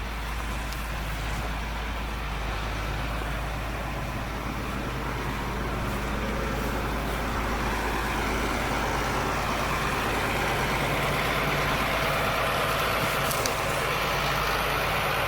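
Heavy truck engine running steadily while towing a dead dump truck, growing gradually louder.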